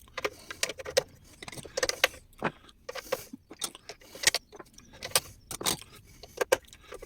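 Irregular clicks, taps and small rattles of hands working inside an opened plastic-cased site radio, refitting a cable.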